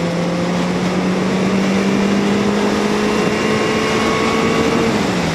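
Yamaha XJ750 Seca's air-cooled inline-four engine running under way, its note creeping slowly higher, then dropping briefly near the end, over a steady rush of wind.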